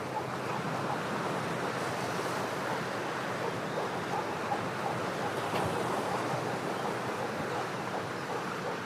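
Ocean surf washing steadily against shoreline rocks. Faint, short chirps repeat a few times a second from a small animal.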